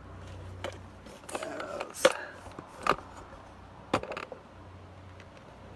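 Handling noise from close-up work at the motorcycle's rear axle: about six sharp clicks and knocks spread over a few seconds, the loudest about two seconds in, with a short scrape just before it.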